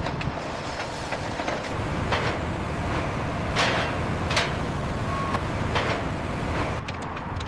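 Heavy industrial machinery, likely the crane just ordered to lift, running with a steady low rumble and several short, sharp sounds scattered through it.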